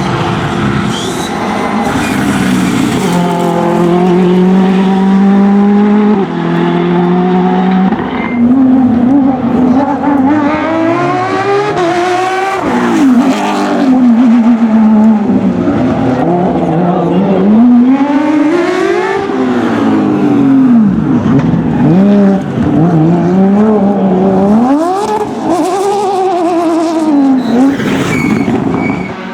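Rally car engine working hard on a stage: in the first few seconds it holds its pitch and steps between levels as gears change, then the revs rise and fall again and again as it brakes and accelerates through a run of corners.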